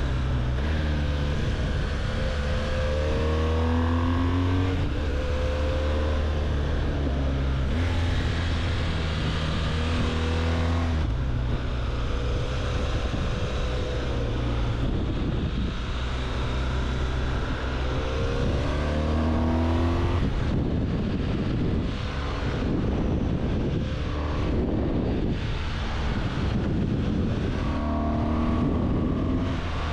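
BMW R1200GS boxer-twin engine under way, its pitch rising with each burst of acceleration and dropping at the gear changes, several times over, with wind rushing over the microphone, heavier in the second half.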